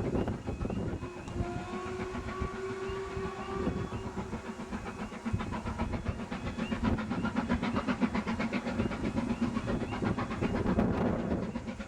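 Steam locomotive whistle blowing for a couple of seconds, then the train running past at speed with a rapid, even beat that grows louder toward the end.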